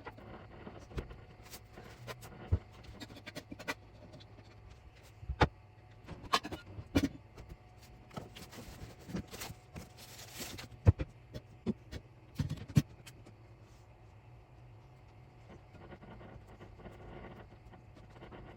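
Scattered sharp knocks and clicks, irregularly spaced, over a low steady hum, with a short rustling hiss about nine to ten seconds in.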